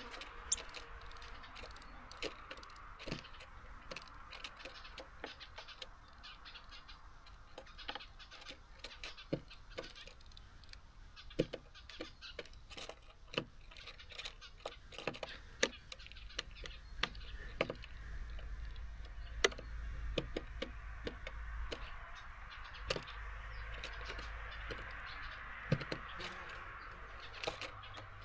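Small garden birds pecking at seeds and hopping on a bird feeder: irregular sharp clicks and taps, several a second at times, over a faint steady background hiss.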